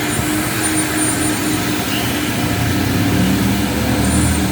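Coin-operated car-wash vacuum running steadily, a loud continuous rush of suction with a steady hum and a few brief high whistles.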